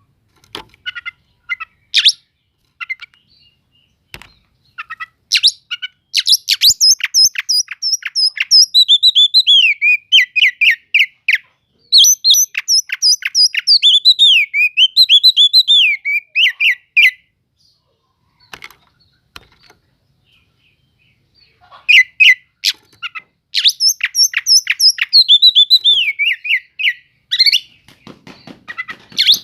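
Oriental magpie-robin (kacer) singing: long phrases of rapid chattering notes and wavering, falling whistles, in three bouts with short pauses between them, the song used as a lure (pancingan) to provoke other magpie-robins.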